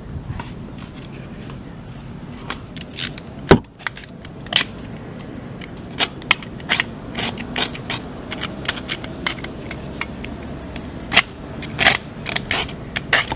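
Irregular sharp clicks, taps and scrapes of hand-tool repair work over a steady low background, with one loud knock about three and a half seconds in and denser clicking near the end.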